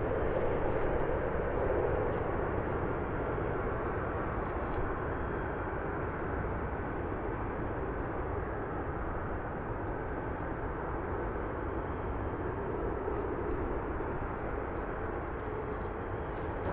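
Departing Embraer E175 regional jet's turbofan engines: a steady jet rush that slowly fades as it climbs away.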